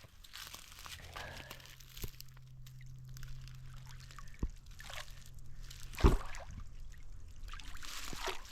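Pond water sloshing, trickling and dripping as debris is lifted out of a backyard pond by hand, with scattered small clicks and one sharp knock about six seconds in.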